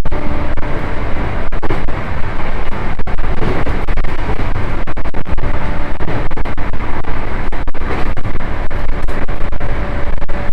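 JR East E235-1000 series electric train running on the rails, heard from inside the passenger car: a loud, steady rumble of wheels and running gear with a faint steady hum from the traction motors.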